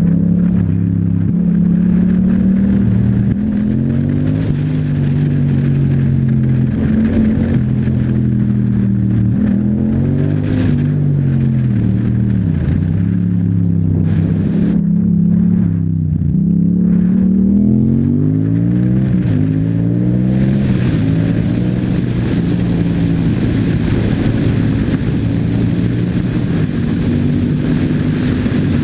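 Yamaha MT-07 parallel-twin engine through an aftermarket Akrapovic exhaust, revving up and dropping back again and again as the bike accelerates through the gears and slows in traffic. Wind rush builds over the last third.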